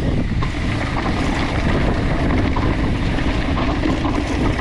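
Wind rushing over the microphone while a mountain bike rolls over a dirt trail, with small rattles and knocks mixed in.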